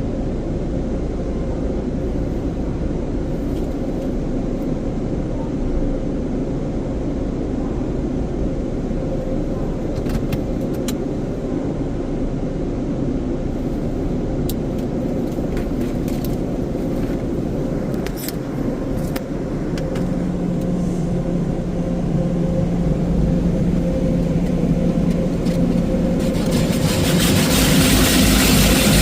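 Istobal FLEX5 in-bay automatic car wash running: a steady machine hum with a held whine and a few clicks. About three-quarters of the way through a lower tone joins. Near the end a loud spraying hiss starts.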